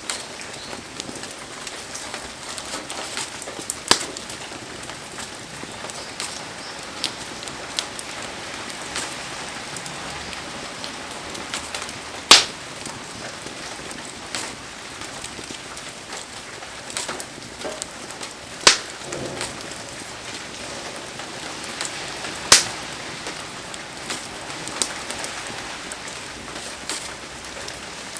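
Heavy rain falling steadily as an even hiss, with sharp pops every few seconds, loudest about four seconds in, near the middle, and twice later on.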